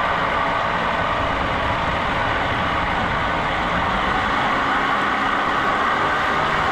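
A motor running steadily: a constant, unchanging drone.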